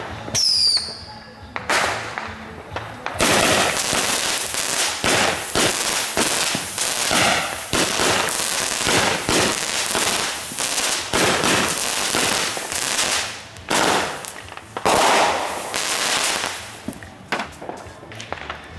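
Fireworks going off: a few short falling whistles about half a second in, then from about three seconds a dense, sustained run of rapid pops and crackles with louder bangs, easing off near the end.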